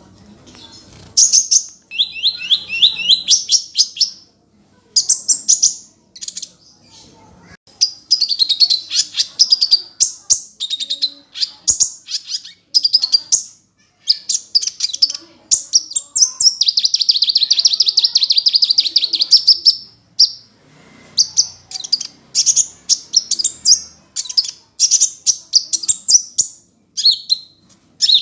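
A sunbird, the cage bird sold in Indonesia as 'kolibri', singing hard: fast high-pitched trilled phrases broken by short pauses, with one longer unbroken trill about two-thirds of the way through.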